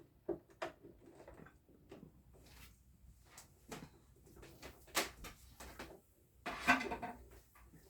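Scattered light clicks, taps and knocks from handling a sewing machine's power cord and plug while it is being plugged in. A sharper knock comes about five seconds in, and a longer rattle follows near the end.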